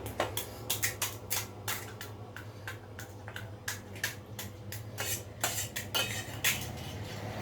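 A spoon clinking and scraping against a dish in quick, irregular clicks while food is served and eaten.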